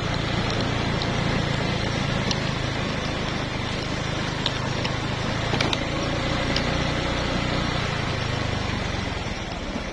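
A vehicle engine runs steadily with a low hum. Its low tone fades and the sound drops off a little near the end.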